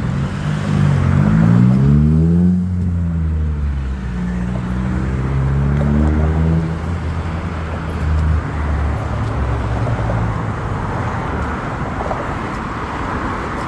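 A motor vehicle's engine going by close on a city street, its pitch climbing over the first couple of seconds and then holding as a steady low hum. The hum gives way to general traffic noise near the end.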